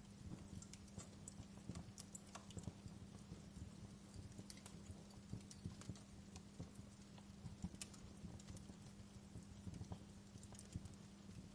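Wood fire burning in a fireplace, crackling with irregular soft pops and a few sharper snaps over a steady low rumble.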